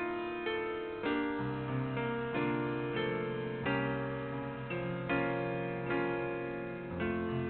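Slow instrumental piano music: chords struck about once a second, each fading away, over held bass notes.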